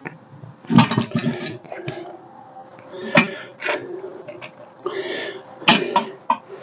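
Irregular knocks and clanks of a small sheet-steel patch being worked and handled on metal-shaping tools, in several short clusters, with some brief scraping.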